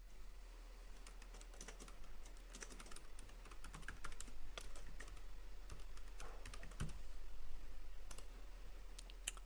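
Computer keyboard typing: quiet, irregular key clicks, with two sharper clicks near the end.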